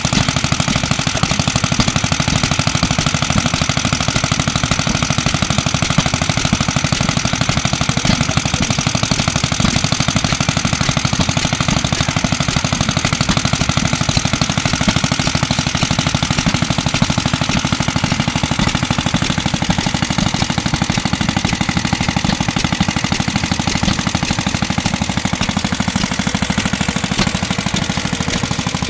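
Circa-1955 Clinton Model A-800 2.5 hp air-cooled small engine running steadily, its rapid, even firing beat driving a small air compressor.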